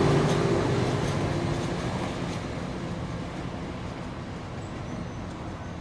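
Departing NJ Transit diesel train, with a locomotive at each end, fading away as it pulls off. Its diesel engine hum dies out in the first couple of seconds, leaving a steadily fading rumble of rail and engine noise.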